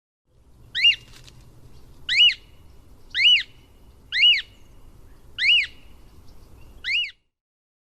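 Cockatiel calling: six short, high calls about a second apart, each rising and then falling in pitch, over a faint low background rumble.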